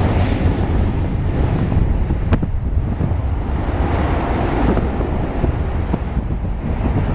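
Jet roar from an Airbus A319's IAE V2500 turbofans as the aircraft departs at takeoff power, a steady low rumble mixed with wind buffeting the microphone.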